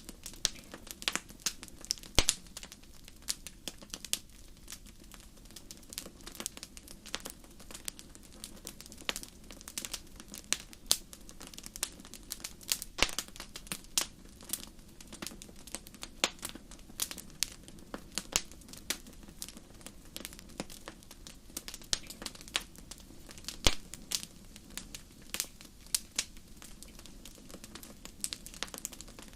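Fireplace fire crackling: irregular sharp pops and snaps, some louder than others, over a steady low background.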